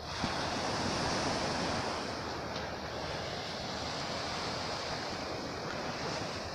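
Sea waves breaking and washing on the shore: a steady rushing surf, swelling in the first couple of seconds.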